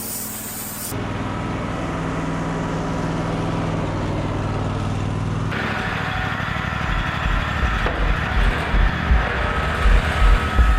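Wood-Mizer LT35 portable band sawmill running, its engine going steadily as the band blade cuts through a pine log, with abrupt cuts between takes. In the second half, a low, regularly pulsing beat of music comes in underneath.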